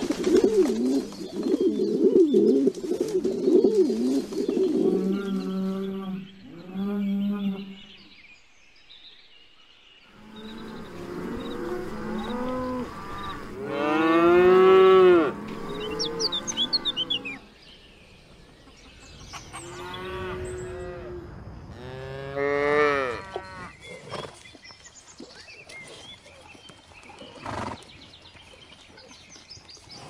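Cattle mooing: several long, drawn-out moos, the loudest about halfway through and another group a few seconds later. In the first few seconds a different, rapidly wavering animal call is heard.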